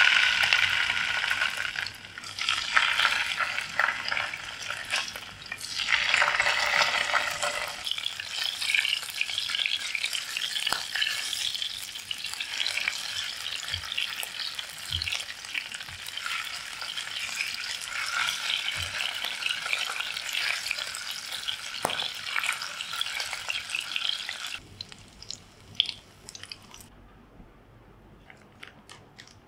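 Salmon pieces sizzling in hot oil in a nonstick frying pan, swelling three times in the first seven seconds and then frying steadily. The sizzle stops suddenly near the end, leaving only faint clicks.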